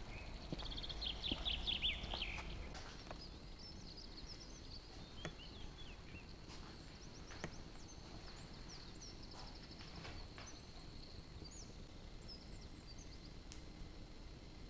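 Small birds chirping with short high calls, the loudest a rapid trill about a second in, over a faint steady high tone and a few soft clicks.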